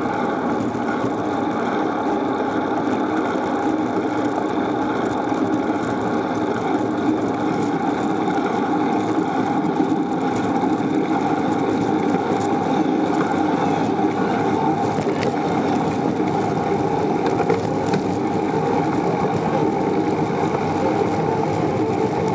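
Steady rushing ride noise from a moving bicycle: wind on the microphone and tyres on the pavement, with a few faint clicks.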